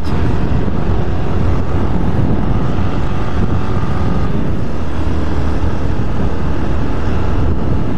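Honda CB 250F Twister's single-cylinder engine running steadily as the motorcycle cruises at about 60 km/h, heard from the rider's seat with the rush of wind and road noise.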